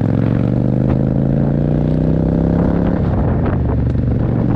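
Motorcycle engine pulling under acceleration, its pitch rising steadily, then dropping about three seconds in at a gear change before running on steadily.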